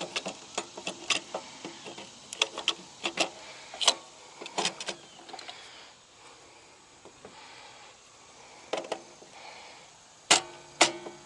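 Irregular metallic clicks and clinks of hand tools working on a circuit breaker in an electrical panel, some with a short metallic ring, and a sharper ringing clink about ten seconds in.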